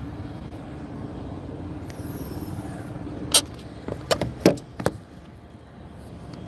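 A car running with a steady hum for about three seconds, then a few sharp clicks and knocks.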